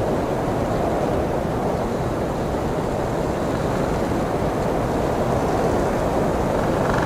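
Blizzard wind blowing steadily, an even low rush without gusts or breaks.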